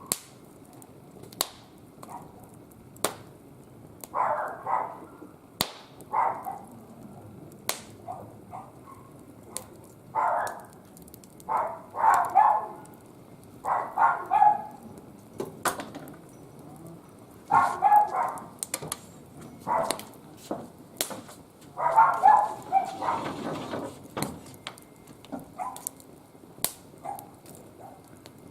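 Wood fire crackling in a barbecue grill, with sharp pops every second or so. A dog barks repeatedly in short clusters of yaps over it, and these barks are the loudest sound.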